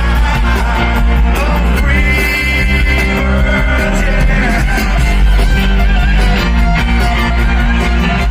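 Loud rock music with a gliding lead guitar line over steady bass and drums.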